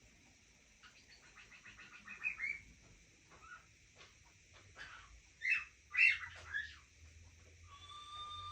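Pet parrots chattering. A quick run of soft clicks comes in the first couple of seconds, a few short squawks that sweep up and down come around the middle, and a steady whistled note starts near the end.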